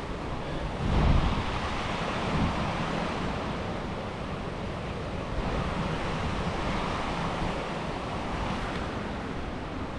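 Steady rush of river rapids and a small waterfall. A low rumbling gust of wind on the microphone about a second in.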